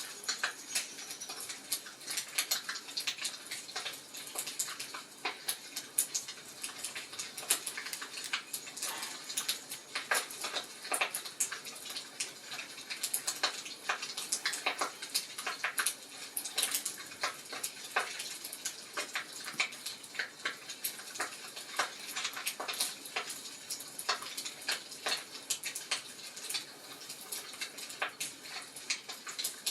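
Wood fire crackling in a fireplace: irregular pops and snaps over a steady hiss.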